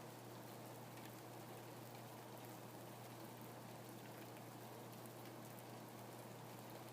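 Steady, faint rain falling, with scattered light ticks of individual drops.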